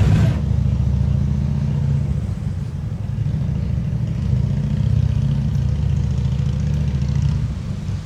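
Steady low rumble of a motor vehicle, with its sound almost entirely deep and nothing higher-pitched standing out.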